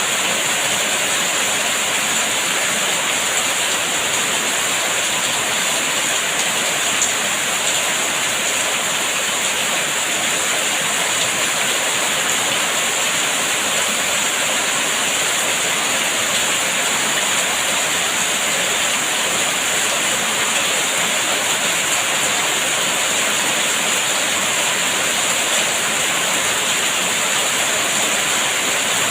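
Steady rain falling, an even, unbroken rush of noise, with a single brief tick about seven seconds in.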